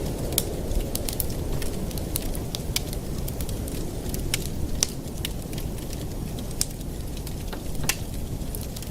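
Wood fire burning in a fireplace: a steady low rumble of flames with scattered sharp crackles and pops, a few each second.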